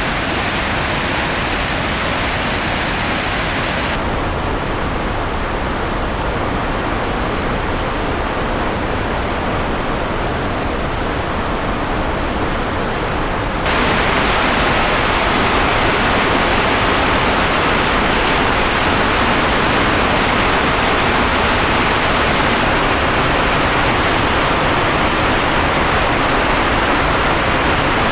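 A waterfall's steady, dense roar of rushing water, heard across several shots. The sound changes abruptly about 4 seconds in and grows louder and brighter at a second change about 14 seconds in.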